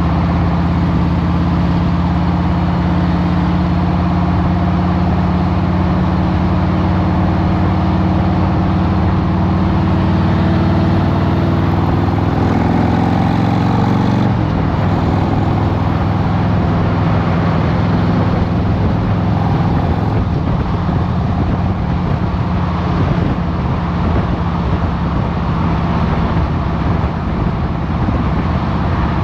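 2023 Harley-Davidson Road Glide Special's Milwaukee-Eight 114 V-twin running steadily, then rising in pitch a little under halfway through as the bike accelerates, after which the engine sound turns rougher and mixes with more road and wind noise.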